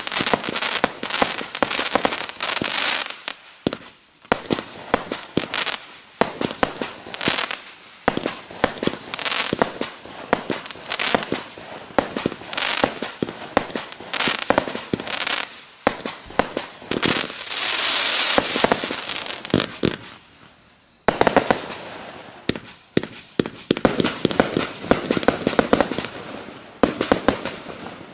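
A 20 mm compact firework cake of 268 shots firing in rapid volleys of launches and bursts, with a stretch of dense crackling about two-thirds of the way in. There is a brief lull just past the middle, and the firing stops just before the end.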